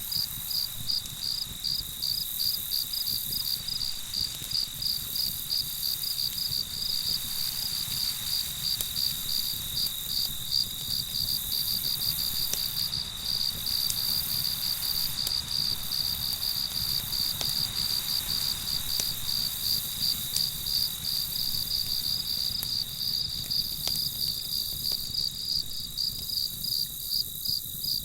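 Crickets chirping in a steady rhythm, about two to three chirps a second, over a continuous high insect trill, with a few faint crackles from a campfire.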